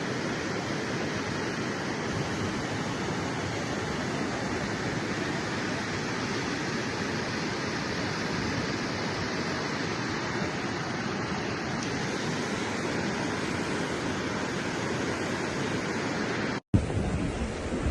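Steady rushing noise of a heavy rainstorm, even throughout, cut off abruptly near the end.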